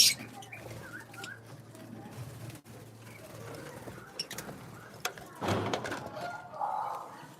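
Aviary birds and poultry calling: scattered short chirps and low calls. A sharp click comes at the very start, and a brief noisy burst about five and a half seconds in, over a faint steady hum.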